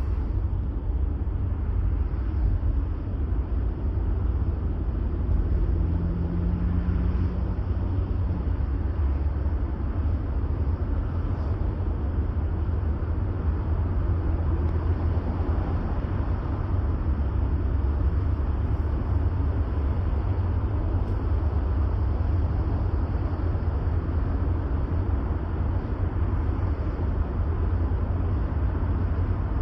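A car driving slowly at about 20 mph, heard from inside the cabin: a steady low rumble of engine and road noise.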